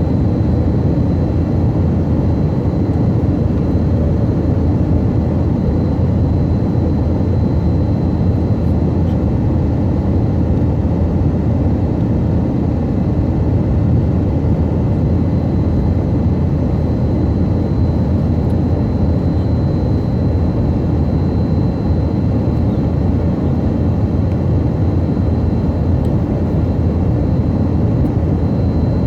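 Tupolev Tu-134AK airliner heard from on board in level cruise flight: a steady low engine and airflow noise from its two rear-mounted Soloviev D-30 turbofans, with a faint high whine held throughout.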